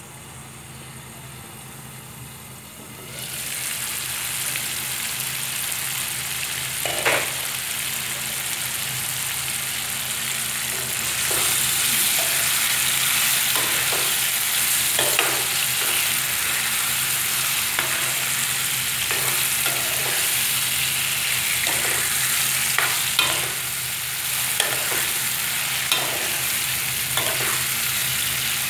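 Paneer cubes frying with tomato and onion in oil in a nonstick wok: a steady sizzle that starts about three seconds in. A spatula scrapes and taps against the pan again and again as the food is stirred.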